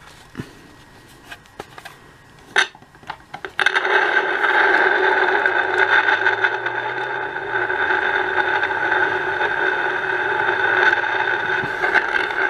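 A few handling clicks and knocks, then about three and a half seconds in the Snake Mountain playset's battery-powered speaker starts a loud, steady electronic buzz with several held tones. No voice comes through the microphone being tried: it doesn't work.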